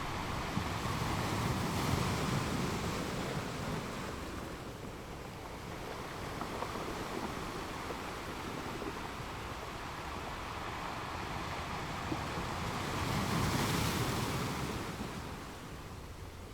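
Ocean waves breaking on rocks, a continuous rushing wash of surf that swells louder about two seconds in and again near the end.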